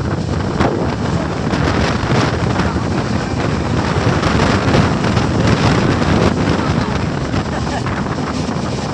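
Wind buffeting the microphone over the steady running noise of a moving train, with a few short clicks and knocks.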